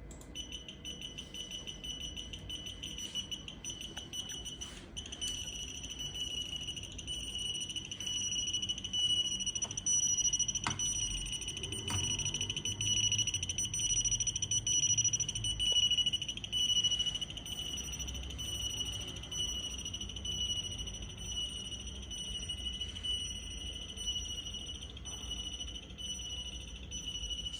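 A steady, high-pitched electronic buzzer tone like a piezo alarm, sounding continuously, with a couple of sharp clicks about eleven and twelve seconds in and a low rumble underneath.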